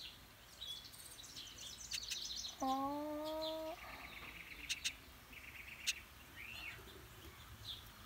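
Small birds chirping, with quick high twittering runs and short single chirps throughout. About two and a half seconds in, a low held voice-like tone lasts about a second, and a couple of sharp clicks come later.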